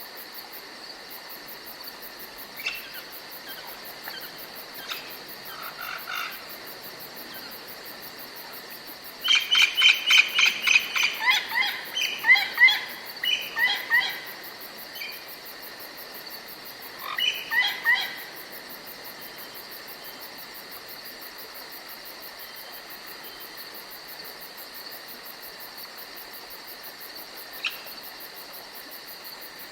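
Forest birds and insects: a steady high insect drone, with a bird calling in a quick run of notes and then a few falling chirps about nine seconds in, a shorter phrase a few seconds later, and scattered single chirps.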